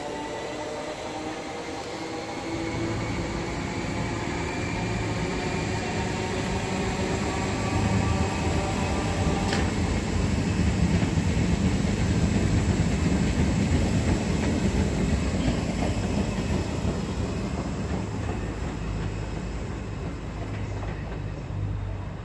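Electric multiple-unit passenger train pulling away and accelerating. Its traction motors whine in several tones that rise slowly in pitch, over a wheel rumble that grows loudest midway and then eases as the train moves off.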